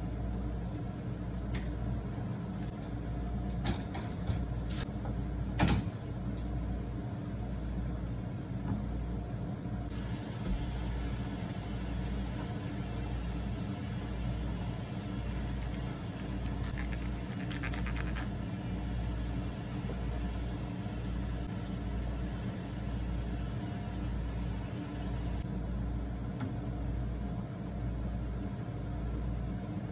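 Steady low mechanical hum with a pulsing low drone, and a few sharp knocks about four to six seconds in.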